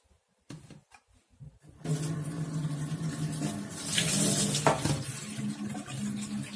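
A few light clicks, then about two seconds in a tap is turned on and water runs steadily into a sink, with a low hum under the rush.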